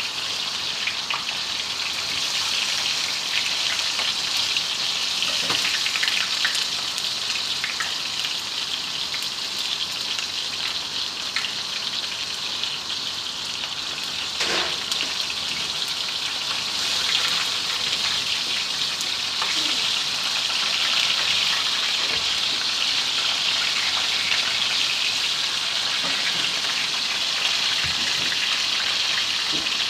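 Barbecue chicken frying in hot oil: a steady sizzle with scattered pops and crackles.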